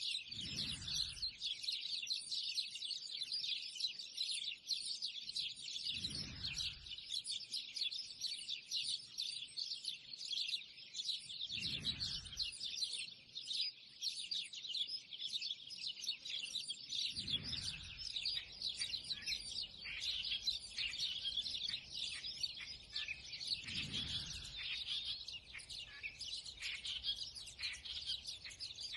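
A dense, continuous chorus of many small birds chirping and twittering at once. A low rumble swells and fades about every six seconds beneath it.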